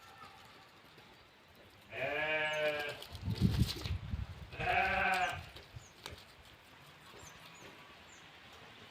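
Sheep bleating twice, two drawn-out calls a couple of seconds apart, with a brief low rumble between them and faint bird chirps.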